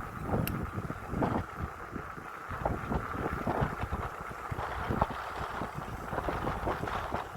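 Riding a Polygon Xtrada 5 mountain bike: wind on the microphone and tyre rumble, with frequent irregular clicks and rattling knocks from the bike over a rough surface.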